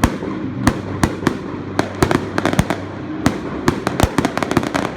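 Fireworks going off in a rapid, irregular string of sharp bangs and cracks, several a second, crowding together most thickly about three to four seconds in.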